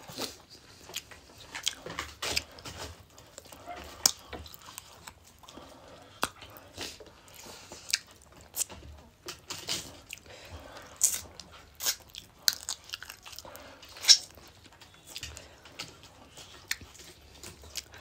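Close-up mouth sounds of people eating a curry-and-rice meal by hand: chewing and crunching, with irregular crisp clicks and wet smacks about twice a second.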